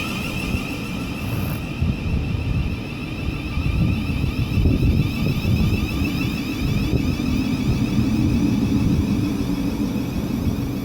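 Electric train running through the station: a steady low rumble with a high whine over it that eases slightly after about two seconds.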